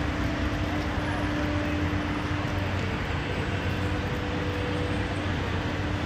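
Steady mechanical rumble with a continuous low hum and a faint steady tone.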